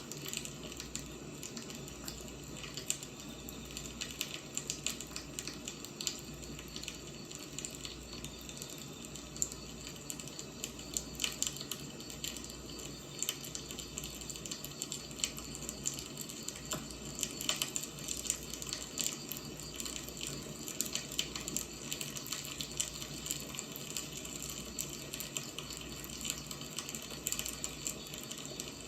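Wood fire burning: a steady hiss with frequent, irregular crackles and pops of burning firewood.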